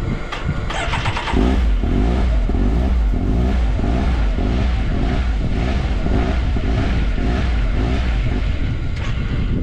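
Side-by-side UTV engine starting about a second in, then running steadily and loudly.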